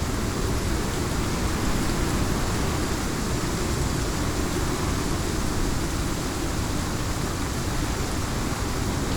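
Heavy rain falling steadily, with a low rumble of strong wind beneath it; no thunderclap.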